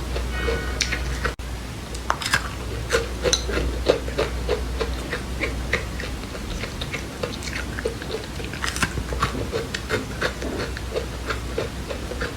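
Close-up chewing of crunchy seeds: many small, irregular crunches and clicks, several a second, as the seeds are bitten and ground between the teeth.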